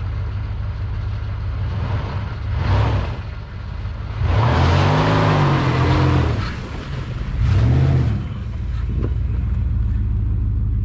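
Jeep Grand Cherokee ZJ engine running, revved up and back down three times, the longest and loudest rev in the middle lasting about two seconds.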